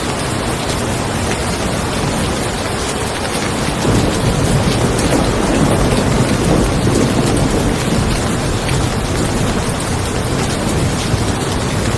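Steady rain falling, with a low roll of thunder that swells about four seconds in and slowly fades.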